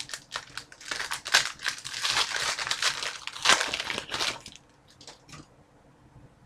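Plastic trading card pack wrapper crinkling as it is handled and torn open, with dense crackling for about four and a half seconds, then only a few faint clicks.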